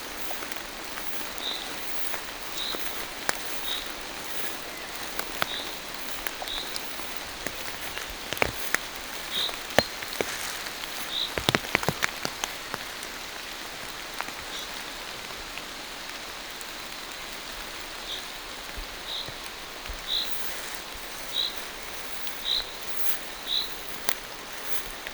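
Steady rain falling on a forest, with a bird giving a short high call over and over, about once a second, on and off. A quick cluster of sharp ticks sounds about halfway through.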